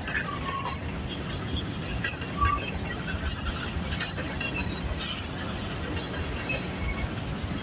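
Freight cars of a chemical train rolling past on the track: a steady low rumble with scattered short, high wheel squeaks.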